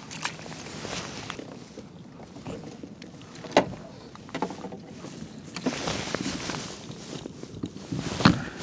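Knocks and handling noises on a fishing kayak as a fish and gear are dealt with, with a sharp knock about three and a half seconds in and another near the end.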